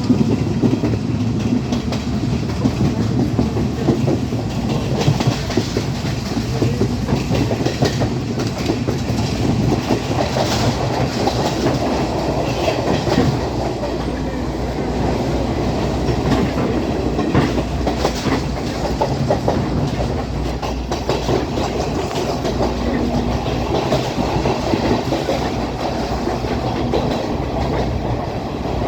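Class S12 diesel multiple unit running along the track: a steady rumble of wheels and engine, with a click of the wheels over rail joints now and then.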